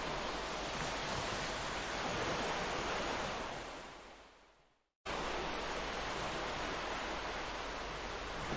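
Steady rush of ocean surf, fading out over about a second and a half to a moment of silence near the middle, then cutting straight back in at full level, as at a splice in a looped recording.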